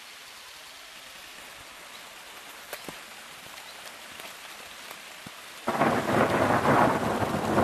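Steady rain hissing, then, near the end, a sudden loud clap of close thunder that keeps rumbling on.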